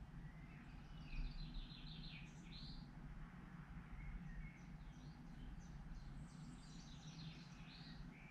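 Small songbird chirping and trilling, played faintly through a TV's speakers, in two quick bouts over a low steady hum.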